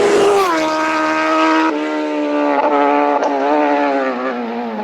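Racing motorcycle passing at speed. Its engine note drops sharply in pitch as it goes by, about half a second in. The note shifts again just under two seconds in, then keeps falling and fading as the bike pulls away.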